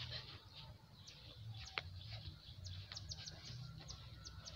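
Small birds chirping: quick, high, downward-sliding chirps, coming in a rapid run in the second half, over a low rumble.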